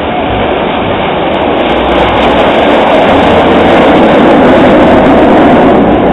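Jet engine noise from BAE Hawk T1 jets flying past. The loud rushing sound builds over the first couple of seconds, is loudest about two-thirds of the way in, then eases slightly.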